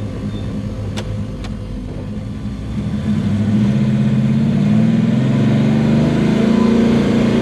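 Big-block V8 of a '67 Chevelle drag car pulling hard under heavy throttle: the engine runs steadily, then about three seconds in it revs up and gets louder, staying loud as the car accelerates.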